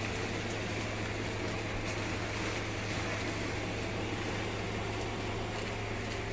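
Small built-in blower fan of an airblown Halloween inflatable running steadily with a low hum, inflating it slowly.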